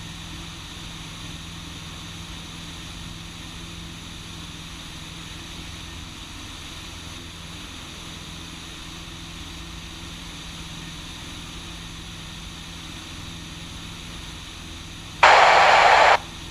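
Cessna 150's four-cylinder Continental O-200 engine and propeller droning steadily at climb power. Near the end, a loud burst of hiss lasts about a second.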